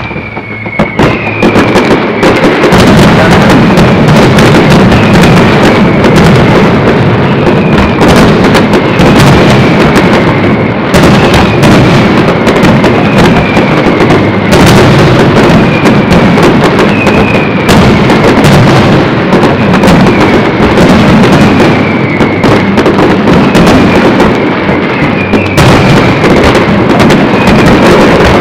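Aerial fireworks display firing a dense, continuous barrage of bursting shells and crackle, very loud throughout. A short falling whistle recurs about every second and a half over the bangs.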